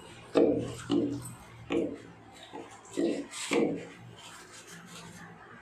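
Sponge rubbing baking-soda paste over the plastic inside of a fridge, in about five or six short strokes at uneven intervals.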